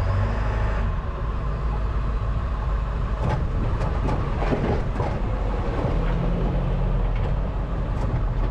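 Tow truck engine running steadily with a low rumble, with a few scattered clanks and knocks in the middle.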